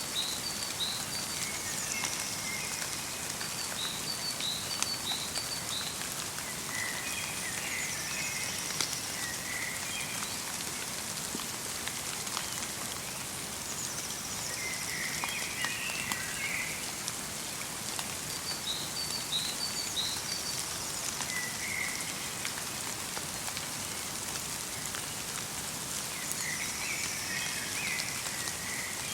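Light rain falling steadily with scattered drips ticking, while small birds call at intervals: short chirp groups and brief trills every few seconds.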